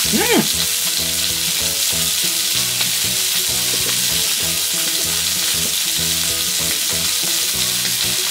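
Marbled loin steak slices sizzling steadily on an electric tabletop hot plate.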